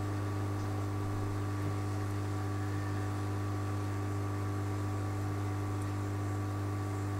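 Steady low electrical hum with a few higher steady tones over faint hiss, unchanging throughout.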